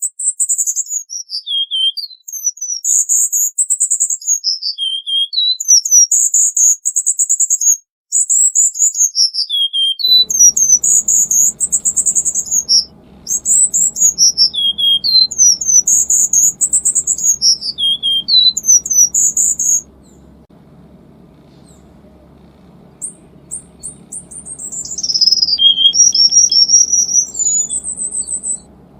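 Cuban bullfinch singing: fast, high-pitched warbled phrases repeated every two to three seconds, breaking off about two-thirds of the way through, then one different rising-and-falling phrase near the end. A faint low hum joins about a third of the way in.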